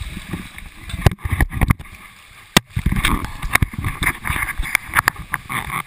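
Water churning and sloshing around a GoPro's waterproof housing, with irregular sharp knocks and clicks of the case being bumped and handled.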